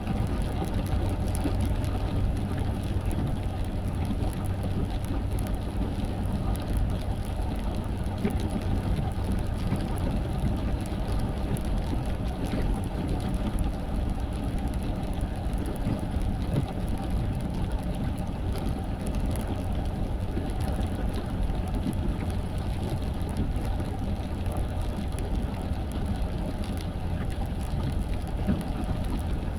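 Steady low rumble of a car's engine and tyres on a wet road, heard inside the moving car, with a faint patter of rain.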